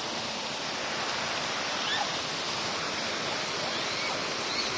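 Steady rush of running water, with a few faint, short high chirps scattered through it.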